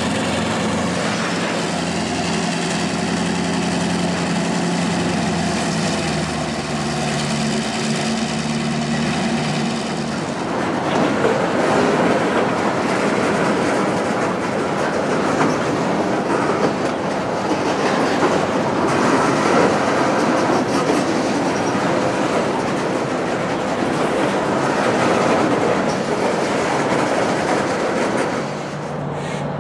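Norfolk Southern diesel-electric locomotives passing under power, their engines running with a steady drone. After about ten seconds that gives way to the steady rolling of freight cars, with wheels clicking and clacking over the rail joints.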